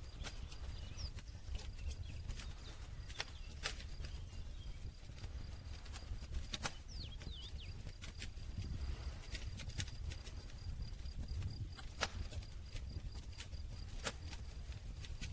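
Wood campfire crackling: irregular sharp snaps and pops, a few louder ones every few seconds, over a low steady rumble.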